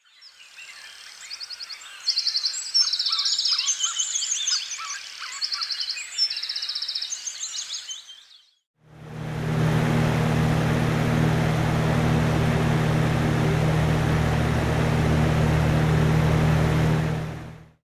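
A Dremkit A500-B portable white noise machine playing its built-in sounds: a recording of birds chirping over a soft background for about eight seconds, then, after a short break, a steady noise with a low hum underneath.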